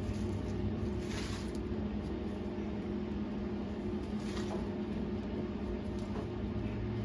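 Arc welding on a steel table frame: a steady crackling hum from the arc and welder, with two short hissing flares about a second in and about four seconds in.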